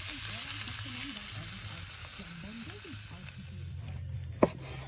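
Food sizzling as it fries over a fireplace fire, the sizzle fading over the last second or so, with a single sharp knock about four and a half seconds in.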